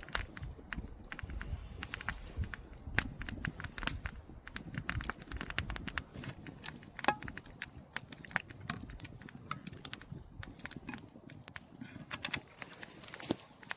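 Campfire crackling: irregular sharp snaps and pops over a low rumble.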